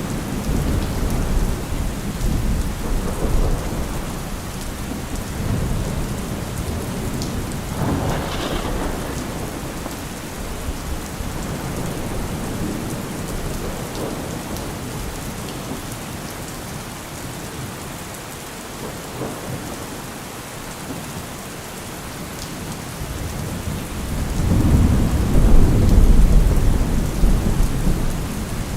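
Steady heavy rain with rolling thunder: low rumbles swell and fade, with a brief sharper crack about 8 seconds in and the loudest, long rumble near the end.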